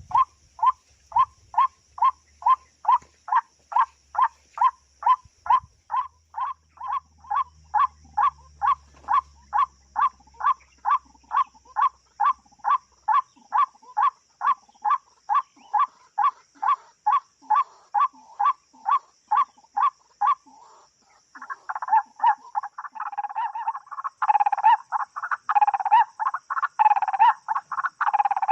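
White-breasted waterhen (ruak-ruak) calling: a croaking note repeated about twice a second for some twenty seconds, then a denser, jumbled burst of calls near the end. A steady high insect drone runs underneath.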